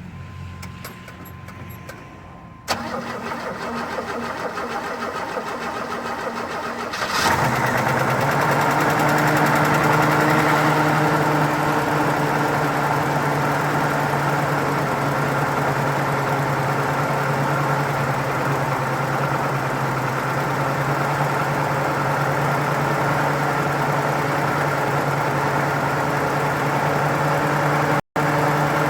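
The 1978 Chevy Nova's carbureted engine being started cold: the starter cranks for about four seconds, then the engine catches and settles into a steady idle on its electric choke.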